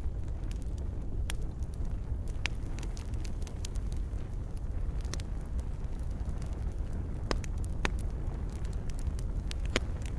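Wood fire burning, a steady low rumble with scattered sharp pops and crackles, a few of them loud.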